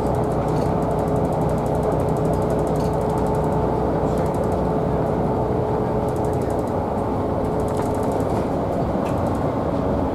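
Rail vehicle running at a steady speed: a continuous rumble with a steady whine that fades out about eight seconds in, and fast rattling clicks over it.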